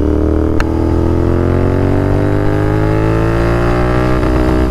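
Royal Enfield Continental GT 650's 648 cc parallel-twin, running through Red Rooster aftermarket exhausts, pulling under throttle with its pitch climbing steadily through one gear. The pitch drops at an upshift about four seconds in. A single sharp click comes about half a second in.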